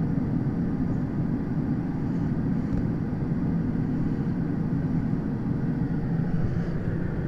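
Long container freight train rolling slowly past, a steady low rumble heard from inside a car.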